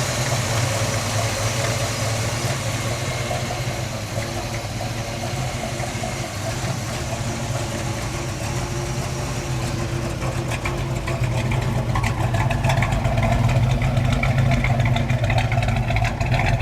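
Chevrolet El Camino's 454 big-block V8 running at a steady idle, growing somewhat louder about two-thirds of the way through.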